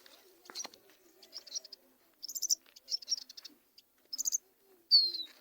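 Small cage finches chirping in short, high, scattered bursts, with one downward-sliding note near the end.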